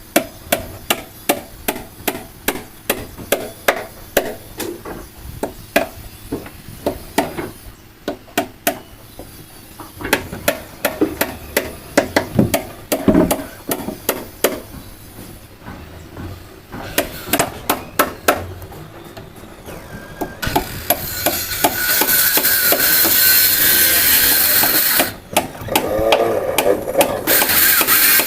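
Hammer blows on wooden boards, about two to three strikes a second, as planks are nailed down. About two-thirds of the way through, a power tool starts up and runs loudly, with a brief dip near the end.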